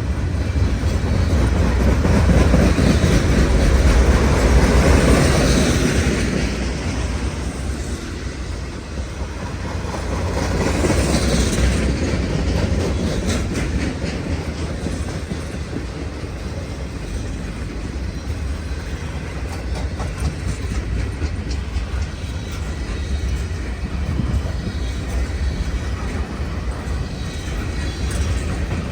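Freight train cars rolling past, steady heavy rumble with wheels clacking over rail joints, swelling louder twice in the first half.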